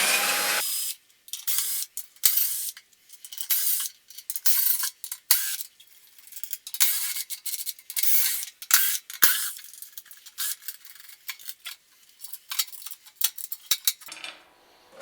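A power drill stops under a second in, then a scattered series of light metallic clicks, clinks and short scrapes as bolts are taken out of the pellet stove's sheet-metal cover plate and handled.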